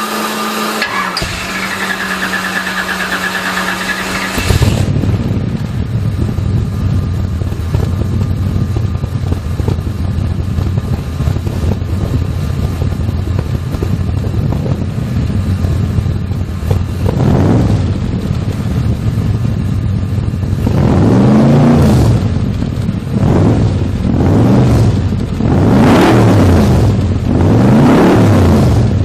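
A car engine idling with a low, steady rumble, then revved repeatedly in the last third, its pitch climbing and dropping with each blip of the throttle.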